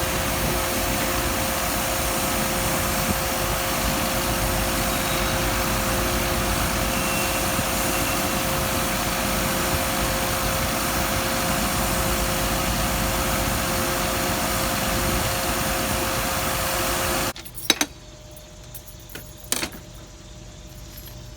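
An engine idling steadily with a faint held whine, cutting off abruptly about seventeen seconds in. A few sharp clicks follow in the quiet.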